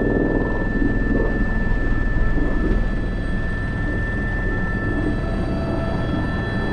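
Airbus H125 (AS350 B3) helicopter in flight, heard from the cockpit: steady rotor and turbine noise with a high, steady whine. About five seconds in, a few more steady tones join.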